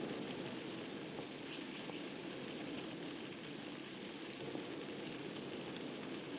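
Wood fire burning in a fireplace: a steady low hiss of the flames with a few sharp crackles and pops from the burning logs, scattered irregularly.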